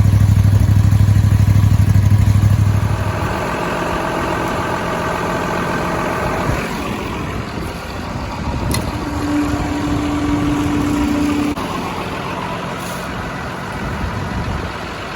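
A vehicle engine running, with a strong steady low hum that falls away about three seconds in, followed by a steadier, lighter engine sound and a brief steady tone in the middle.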